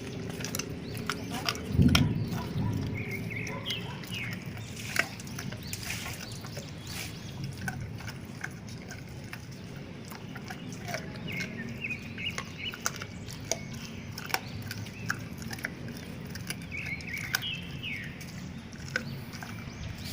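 Dogs chewing and crunching raw pork feet and chicken feet, with irregular sharp cracks of bone and gristle. Birds chirp now and then in the background.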